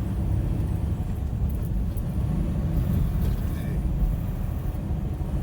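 Semi-truck running down the highway, heard from inside the cab: a steady low rumble of engine and road noise.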